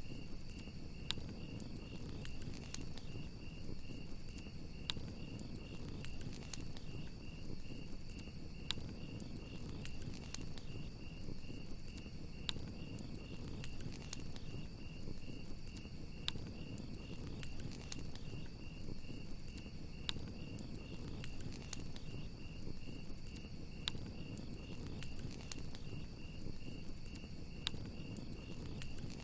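Crickets chirping steadily in a fast pulsing trill over a crackling campfire, with sharp pops from the burning wood every few seconds.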